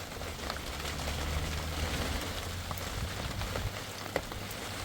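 Rain falling steadily, with scattered individual drop ticks, and a low rumble underneath for about three seconds.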